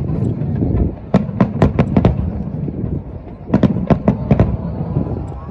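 Aerial fireworks bursting in rapid volleys over a continuous low rumble of shells. A cluster of sharp bangs comes about a second in, and another around three and a half seconds in.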